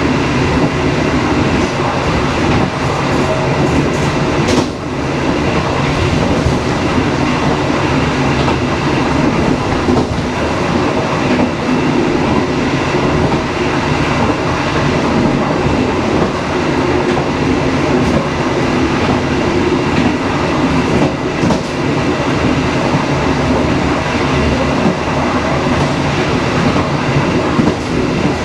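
Passenger train running along the track: a steady rumble of wheels on rail with a few faint knocks scattered through it.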